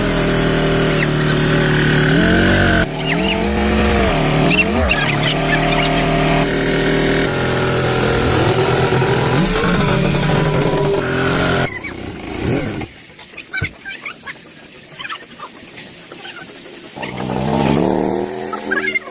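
Tractor engine running and being revved, its pitch rising and falling repeatedly. It cuts off suddenly about 12 seconds in, then revs up again near the end.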